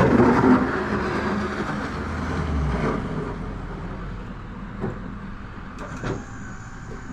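Pickup truck with a snowplow blade working a driveway: the engine runs with a loud rush of noise for the first three seconds, then eases off, with a couple of short knocks near the end.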